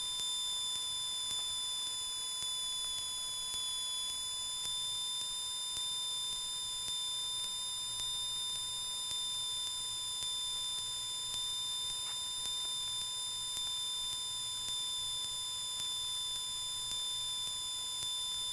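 Steady electrical whine made of several fixed high tones over a faint low hum, the interference noise of a Cessna 172's cockpit intercom audio feed; the engine itself is barely heard.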